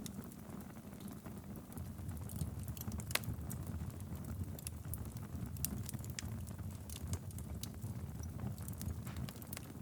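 Wood fire burning steadily in a fireplace, a low rumble of flames with irregular sharp crackles and pops, one louder pop about three seconds in.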